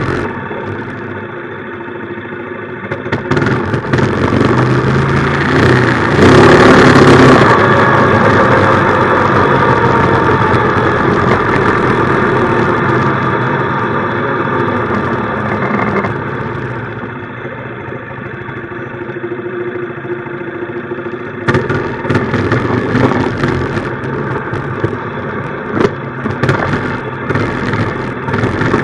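A minibike's small engine running during a ride, speeding up a few seconds in to its loudest around six to seven seconds in, then easing off. Over the last several seconds there is sharp crackling and knocking on top of the engine.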